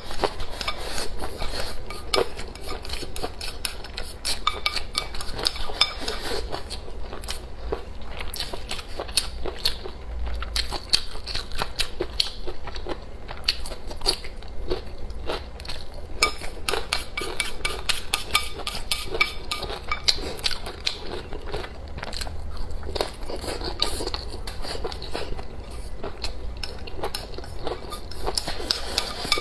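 Close-miked eating: chewing and biting food, with utensils clicking against dishes in many small, quick clicks throughout.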